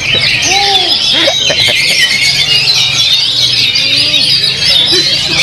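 Caged songbirds singing together, a dense, unbroken stream of high-pitched chirps and trills, with fainter lower calls or voices beneath.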